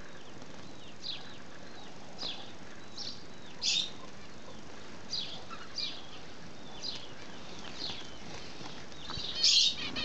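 Small aviary birds chirping: short high calls about once a second, with a louder burst near the end.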